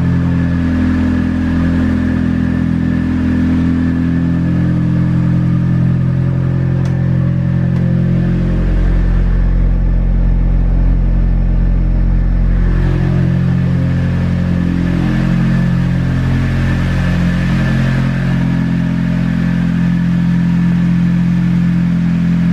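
Nissan SR20DET turbocharged four-cylinder engine idling steadily, freshly refilled with oil and holding oil pressure.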